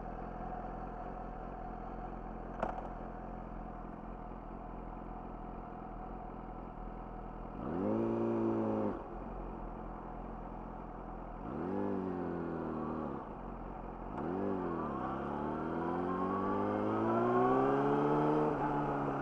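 Yamaha YZF-R6 inline-four with an Akrapovic slip-on exhaust idling steadily, with a single sharp click a few seconds in. About halfway it gives three short rises and falls in revs, then pulls away with a long steady climb in revs as it accelerates.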